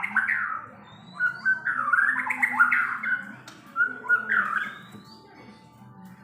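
White-rumped shama (murai batu) singing loud, fast runs of varied whistled and chattering notes, in three bursts with short breaks between them. The bird is fired up and aggressive.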